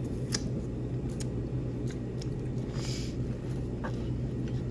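Chewing and eating sounds with a few sharp clicks and a short hiss around three seconds in, over a steady low hum of room noise.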